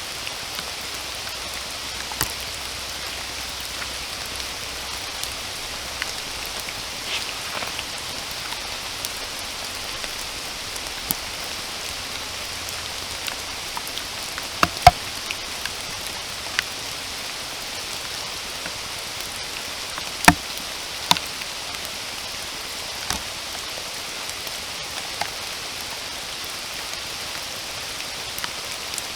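Steady rain falling in a forest, a constant hiss with scattered sharper drops striking close by, the loudest of them about halfway through and again about two-thirds of the way in.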